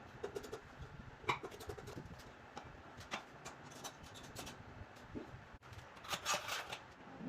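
Scattered light clicks and knocks of objects being handled, with a sharper click about a second in and a short burst of scraping or rattling near the end.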